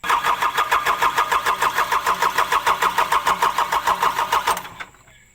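Isuzu dump truck's diesel engine being cranked by its starter motor, turning over with a fast, even pulsing for about four and a half seconds without firing, then stopping. It does not start.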